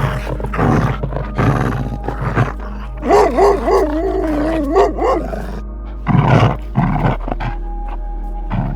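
Animal calls over a steady music bed: a run of short harsh calls, then one wavering pitched call of about two seconds, then two more short calls.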